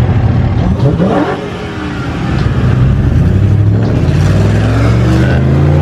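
Car engines revving hard and accelerating as cars launch to race, one of them supercharged. There is a quick rising rev about a second in, and engine pitch climbs steadily through the second half.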